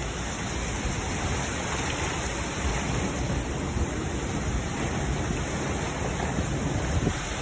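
Steady rain from a severe thunderstorm, heard as an even, unbroken hiss.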